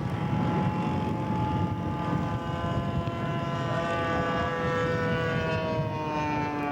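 Laser 150 four-stroke glow engine of a scale Tiger Moth model plane running as it flies by, its pitch slowly falling.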